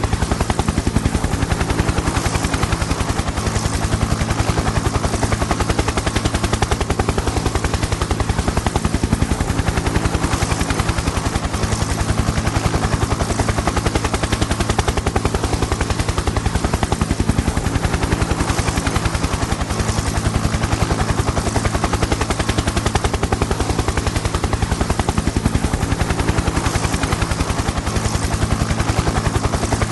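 Helicopter in steady flight: the rapid, even chop of the rotor blades over a steady engine and turbine hum.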